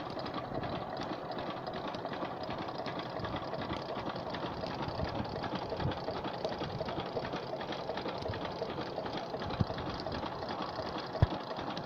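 8 hp diesel engine running steadily with a rapid, even clatter, and a single sharp knock near the end.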